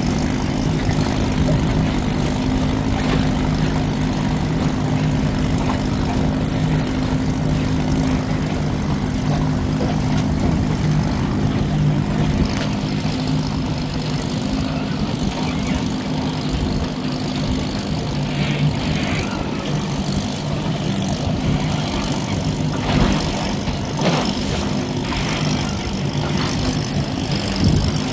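Johnson 20 hp two-stroke outboard motor running steadily under way, with a steady hum over a broad rushing noise.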